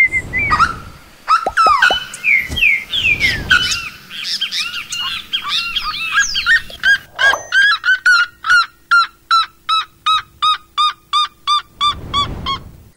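Songbird singing: a jumble of chirps and whistled glides, then about halfway through a long run of evenly repeated, downslurred notes, about three a second.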